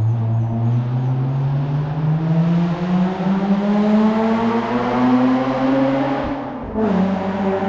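Hillclimb race car engine accelerating under load, its pitch rising steadily for about six seconds; then a quick upshift drops the revs and it pulls on.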